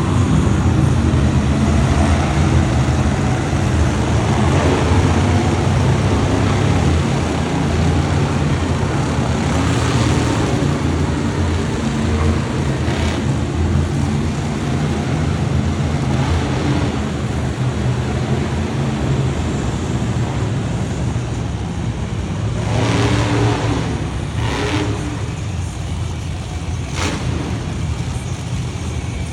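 Monster truck engine running loud and revving in an arena, with a few brief sharp noises over it.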